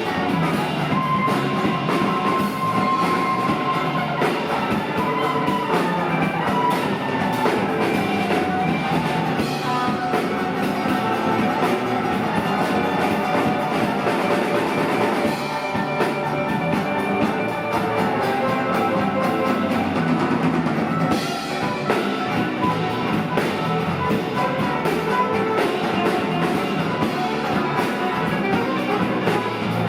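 Live rock band playing an instrumental jam, with drum kit and bass under a lead line of long, bending held notes.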